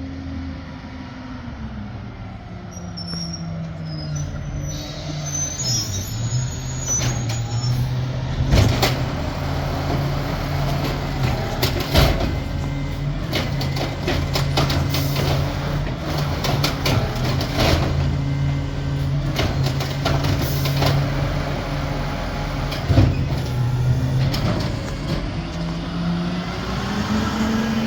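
Amrep garbage truck working a green-waste pickup: its engine settles within the first few seconds and holds a steady note, then climbs again near the end. Over the middle come a string of sharp knocks and bangs, the loudest about a third of the way through and again near the end.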